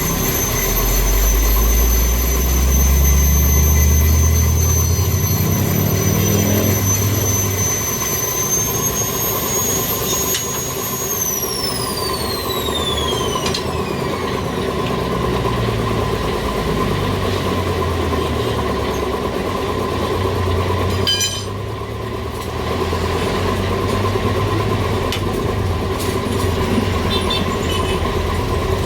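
Machine noise from a motorised tyre changer working a motorcycle tyre: a motor hum rising in pitch over the first several seconds, with steady high-pitched squealing tones that slide downward partway through.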